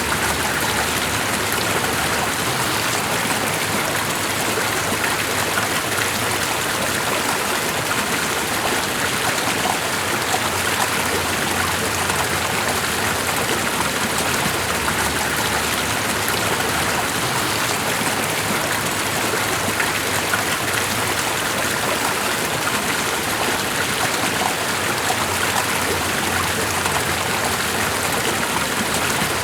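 Steady, unbroken sound of running water, an even rush that neither rises nor falls.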